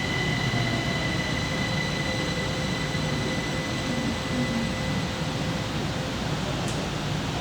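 Kaohsiung MRT Red Line train heard from inside the car as it slows into a station: a steady running rumble with a high whine that fades out about six seconds in as the train comes to a stop.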